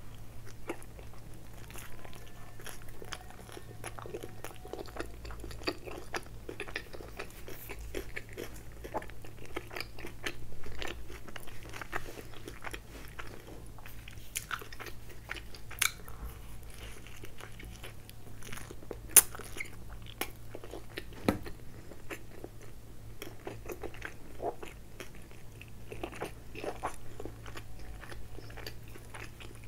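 Close-miked chewing and biting of a chicken tikka wrap: irregular soft crunches and wet mouth clicks, with a few louder, sharper clicks past the middle.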